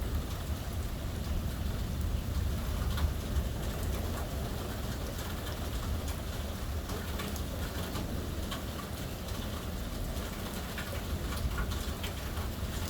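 Steady rain from a thunderstorm, with scattered drops ticking sharply on a nearby surface and a constant low rumble underneath.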